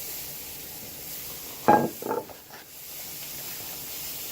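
Beef burger patties sizzling in a frying pan, a steady hiss. A brief loud sound about one and a half seconds in, and a fainter one just after.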